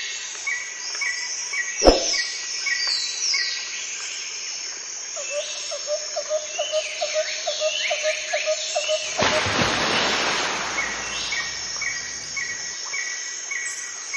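Birds chirping: a run of short, evenly spaced chirps with falling whistles over them, and a lower call repeating about three times a second for a few seconds in the middle. A sharp click comes about 2 s in, and a stretch of hiss follows for a few seconds after the middle.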